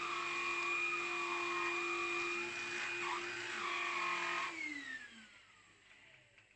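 Black+Decker Multipro CUA525BH-GB cordless vacuum cleaner's motor running steadily with a high whine over rushing air, then switched off about four and a half seconds in, its whine falling in pitch as the motor spins down.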